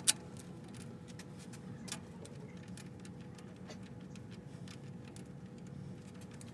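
Scattered light clicks and taps of hand work on metal parts, with a sharper click just after the start and another about two seconds in, over a steady low hum.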